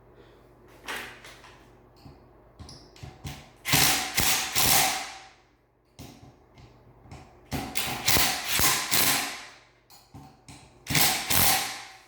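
Ceiling fan parts being handled and fitted together: clicks, knocks and rattling, with three longer noisy mechanical bursts about four, eight and eleven seconds in.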